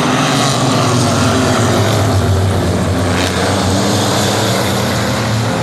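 Race car engines running on the track, a loud, steady drone that holds an even pitch.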